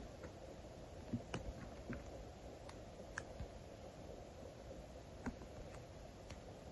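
Faint, irregular small clicks and taps from stickers and paper being handled, peeled and pressed down by hand, about eight in all, the sharpest about a second in and again about five seconds in, over a low steady hiss.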